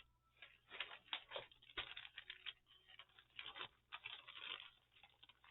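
Faint rustling and handling of paper, an irregular run of soft crackles and taps.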